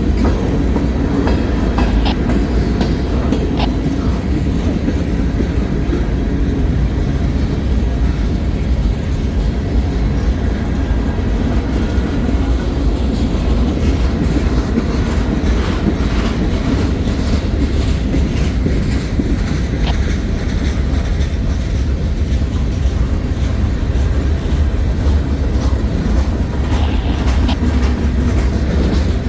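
Freight cars of a slow CSX manifest freight train rolling past: a steady heavy rumble with wheels clicking over the rail joints.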